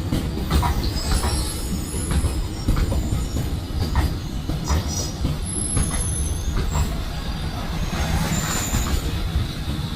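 Train running on the rails: a steady low rumble with irregular sharp clicks and a few brief, thin high-pitched squeals.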